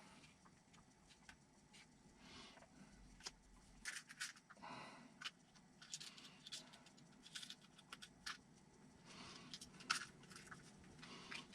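Faint, scattered clicks, taps and rustles of small plastic parts and screws being handled while a servo is fitted into an RC truck kit. The sharpest click comes a little before the end.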